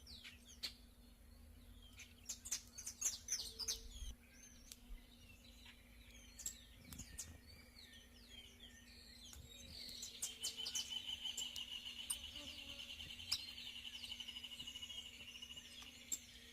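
Songbirds chirping in quick clusters of short calls, then one bird giving a long, even trill of rapid notes for about six seconds.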